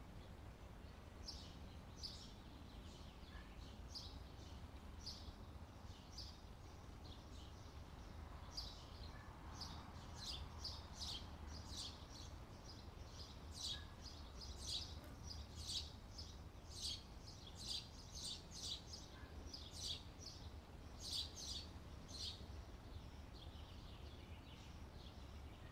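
Birds chirping in short high chirps, sparse at first and coming thicker from about eight seconds in, over a faint low steady rumble.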